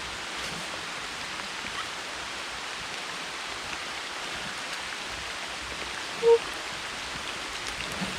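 Steady rain falling, an even hiss with the water of a low-running waterfall mixed in. A single short, pitched squeak cuts in about six seconds in.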